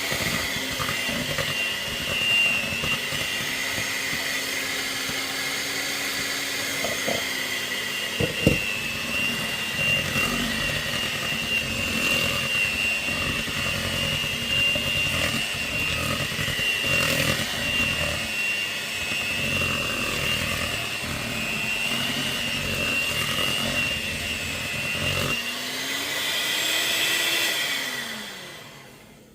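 Electric mixer running steadily, beating choux pastry dough as eggs are worked in, with a steady motor whine and a sharp knock about eight seconds in. Near the end the motor's pitch rises and falls, then it is switched off and stops.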